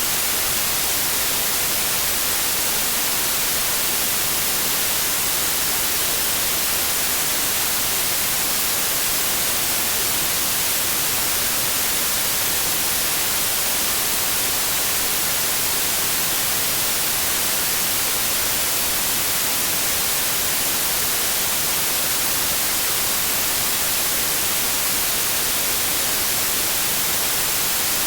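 Steady white noise: an even, unchanging hiss with a flat spectrum, brightest in the high frequencies.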